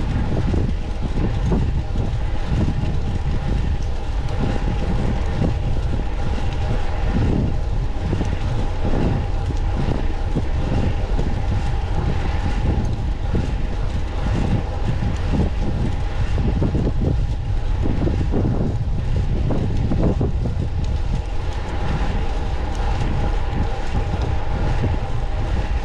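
Steady wind rush on the microphone and road noise while riding a fixed-gear track bike, with a constant faint high hum running underneath.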